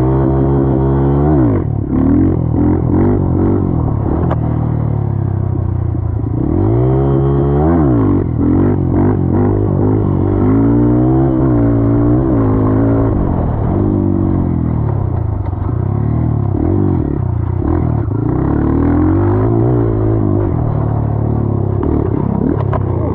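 Dirt bike engine running under way, its pitch climbing and dropping again over and over as the throttle opens and closes through the gears.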